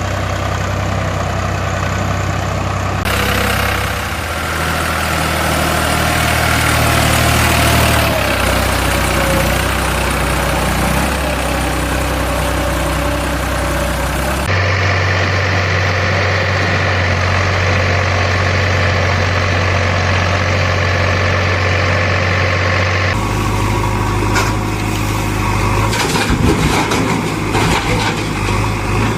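Diesel engines of tractors and a backhoe loader running steadily, the sound changing abruptly every several seconds as it switches between machines.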